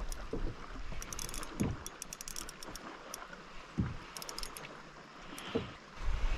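Light water splashing and dripping beside a kayak as a hooked rock bass is brought in, with many small ticks and three dull knocks spread through.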